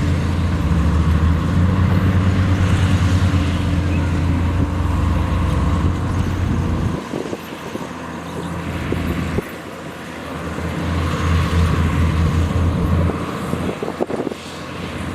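Heavy diesel engine running hard, easing off about seven seconds in and building again around ten seconds, with a few sharp knocks near the end.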